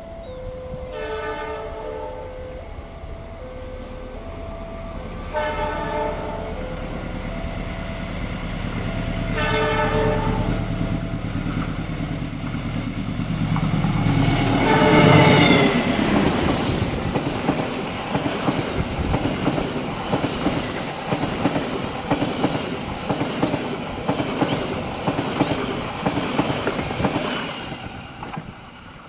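A train sounds its horn three times as it approaches, the third blast the longest, while an alternating two-note level-crossing warning signal rings. The locomotive passes loudly about halfway through, and then comes the rapid clickety-clack of its carriages' wheels over the rail joints, which fades near the end.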